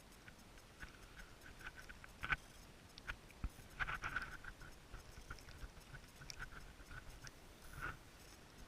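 Faint scattered clicks and taps, the loudest about two and a half seconds in and again around four seconds in.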